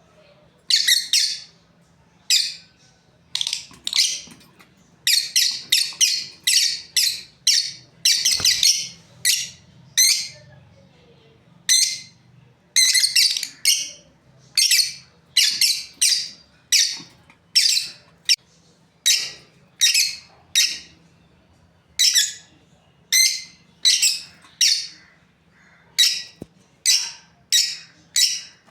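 Lovebirds giving short, shrill, high-pitched chirps and squawks over and over, sometimes singly and sometimes in quick runs of several.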